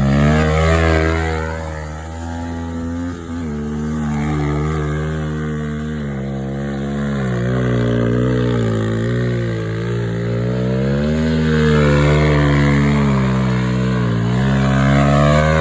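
Thumpstar 110 pit bike's small four-stroke single-cylinder engine running under throttle, its pitch dropping and climbing again several times as it is revved and eased off.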